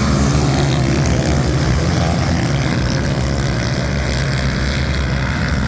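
A steady, loud engine drone with a constant low hum and no change in speed.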